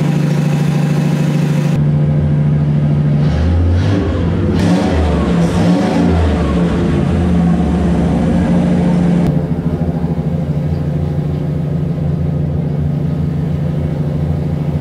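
Chevrolet 327 small-block V8 running on an engine dyno, its speed wavering up and down in the middle before settling back to a steady run as it warms up.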